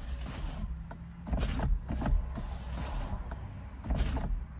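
Rear power window motor of a 2019 Ram 1500 running as the glass is rolled up and down to seat a freshly fitted in-channel rain guard. There are three short louder noises along the way.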